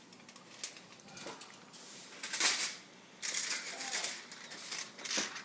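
Aluminium foil boat crinkling as it is handled, in several short, irregular bursts of rustling.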